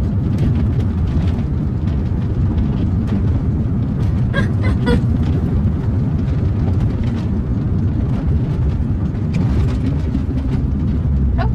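Car cabin road noise while driving: a steady low rumble of tyres and engine.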